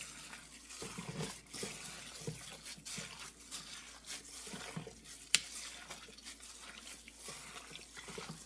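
Raw chicken pieces being mixed by hand in a wet spice marinade: irregular squishing and sloshing. A single sharp click about five seconds in.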